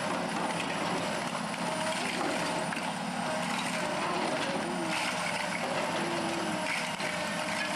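Heavy demolition machinery running steadily, an engine over a continuous noisy din, with a faint crackle about five seconds in.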